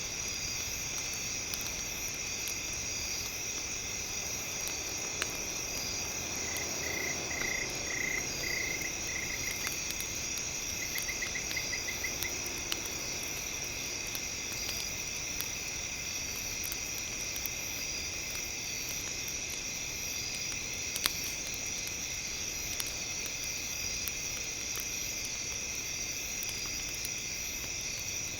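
Campfire crackling with scattered sharp pops over a steady, layered high-pitched ringing. Two brief runs of rapid chirping pulses come about a third of the way in.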